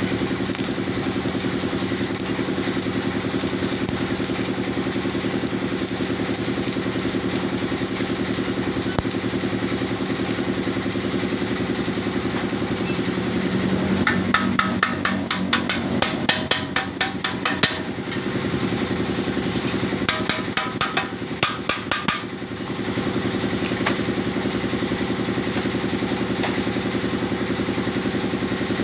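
A steady machine hum runs throughout. Over it come runs of rapid sharp metallic ticks and taps, densest between about 14 and 18 seconds in and again around 20 to 22 seconds.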